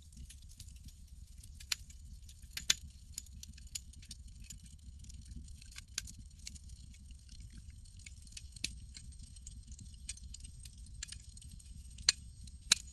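Campfire crackling: scattered sharp pops and snaps at irregular intervals over a low steady rumble, with a louder pop a few seconds in and two more near the end.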